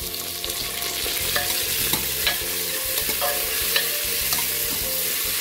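Onions and freshly added tomatoes sizzling in hot oil in a pressure cooker, stirred with a spoon that clicks against the pot several times.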